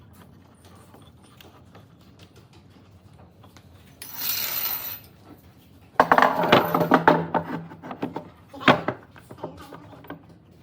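Wooden pieces knocking and clattering in a workshop, with a short burst of hiss about four seconds in; the knocks come thickest from about six seconds on.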